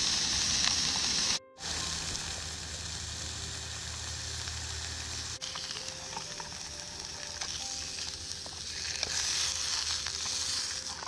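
Sausage patties sizzling as they fry in a pan, a steady hiss that cuts out sharply for a moment about a second and a half in.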